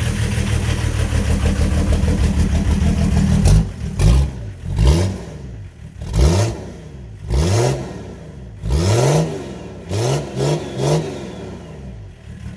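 Volvo 740's D24tic 2.4-litre turbodiesel inline-six, fitted with a Holset HX35 turbo and a new 3-inch downpipe and exhaust, idling steadily, then blipped about eight times in quick revs, each rising and falling, before settling back to idle near the end.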